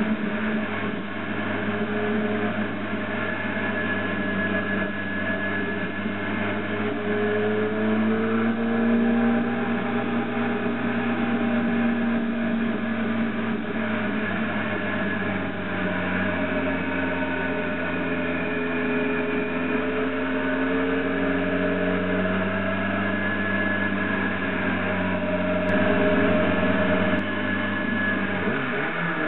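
Motorcycle engine running while the bike is ridden, its pitch rising and falling slowly with the revs.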